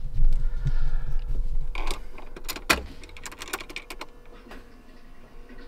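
Ignition key and key ring clicking and jangling in a BMW E36 320i as the key is turned to start, with no sound of the engine cranking or firing: the car will not start even with a new starter fitted. A faint steady hum runs in the background from about halfway through.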